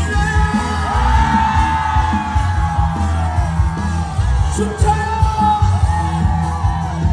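A male trot singer sings live over a loud backing track with a steady bass beat, holding long, swelling notes. Near the end he starts a fresh line.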